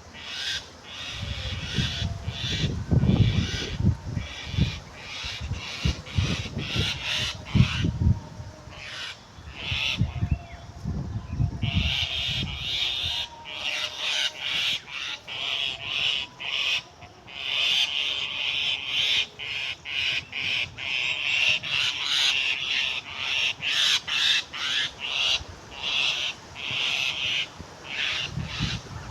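A bird calling over and over in quick, short, harsh notes, denser and steadier in the second half. Low rumbling bursts run under the calls in the first third.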